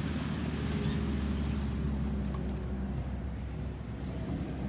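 A vehicle engine idling nearby, a steady low hum, with a few faint clicks.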